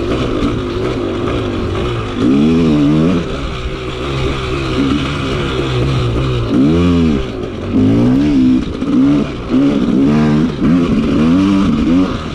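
Dirt bike engine being ridden, revving up and backing off again and again, its pitch rising and falling several times.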